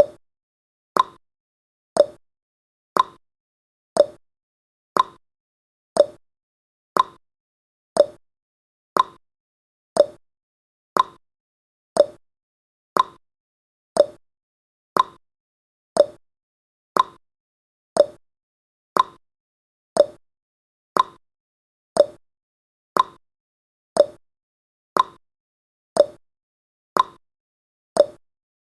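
Countdown timer's ticking sound effect, one sharp tick each second, every other tick slightly different in pitch like a tick-tock.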